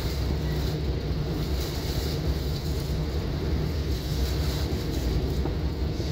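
Long Island Rail Road passenger train, hauled by a DM30AC locomotive, running along the line: a steady low rumble with an even rushing hiss over it.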